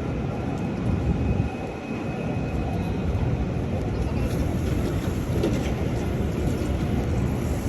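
Steady low rumble of city noise, with faint high tones above it.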